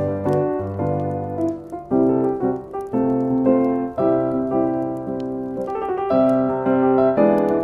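Slow, gentle piano music, with sustained chords and a melody moving note by note.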